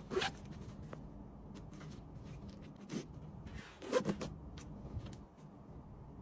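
Packaging and merchandise being handled during order packing: a few short rustling swishes and scrapes, the loudest about four seconds in.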